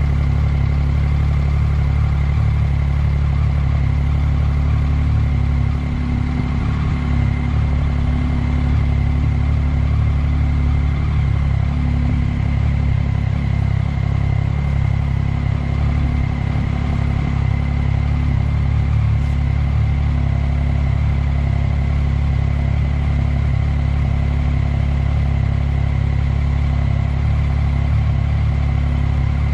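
Motorcycle engine running steadily, a low, even drone with no revving.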